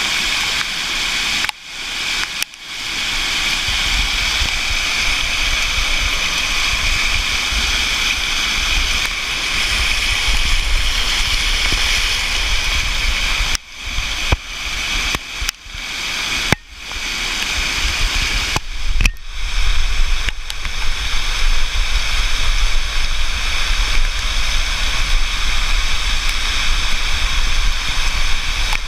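Flash floodwater rushing in a steady, loud torrent, with a low rumble joining about four seconds in. The sound drops out abruptly for moments several times.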